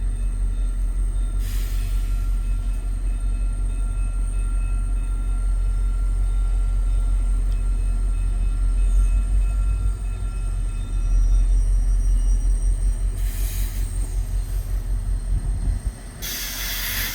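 VIA passenger train running, a steady low rumble, with a short burst of hiss near the end.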